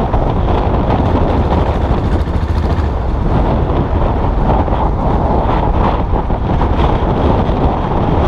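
Custom motorcycle's engine running steadily while riding, with wind buffeting the microphone.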